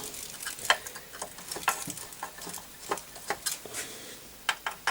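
Irregular small clicks and crackles, several a second, from a home-made electric solder pot as it heats, with solder melting in its trough.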